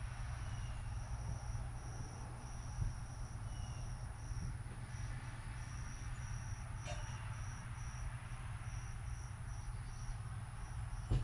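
An insect chirping in a high, thin trill broken into short pulses, about two a second, over a steady low rumble. There is a brief click about seven seconds in and another near the end.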